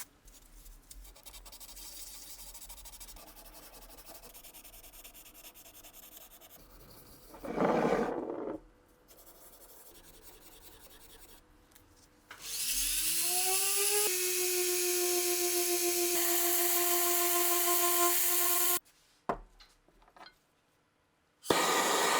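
Light rubbing and scraping on metal, then a small electric power tool spins up with a rising whine. It runs steadily for about five seconds and cuts off suddenly, followed by two clicks.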